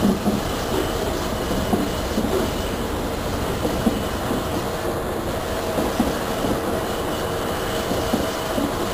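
Passenger train running along the track, heard from beside a moving coach: a steady rumble of wheels on rails with a faint steady whine and occasional short knocks as the wheels pass over the track.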